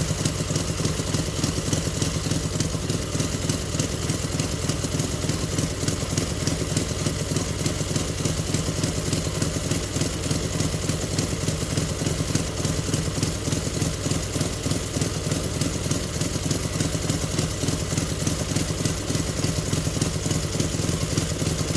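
Dnepr flat-twin motorcycle engine of a Ural-based trike idling steadily while it warms up.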